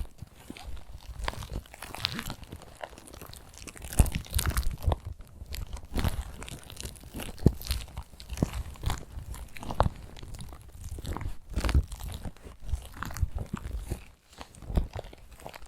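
Fingertips tapping and scratching on a cosmetic bag, an irregular run of crisp taps and crinkly scratches.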